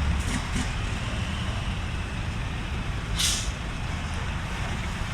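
Heavy truck engine idling with a steady low rumble, and a short sharp hiss of air from the air brakes about three seconds in.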